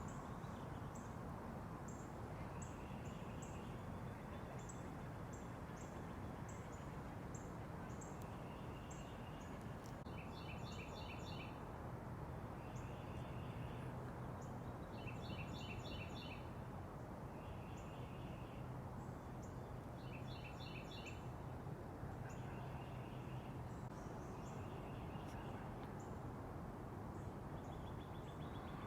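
Small backyard songbirds calling: a thin, high note repeated about every half second, and short rapid trilled phrases every couple of seconds, over a steady low background rumble.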